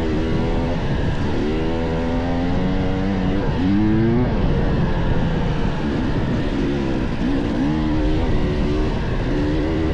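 Dirt bike engine ridden along a trail, its pitch climbing and dropping every second or so as the throttle is worked and the gears change, over a rough rushing noise.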